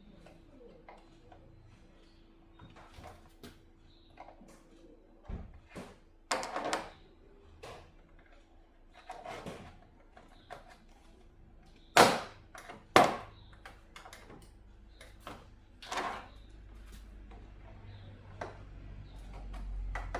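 Hands handling tools and TV parts on a workbench: scattered clicks, light knocks and short scrapes, with two sharp knocks about a second apart past the middle. A faint steady hum runs underneath.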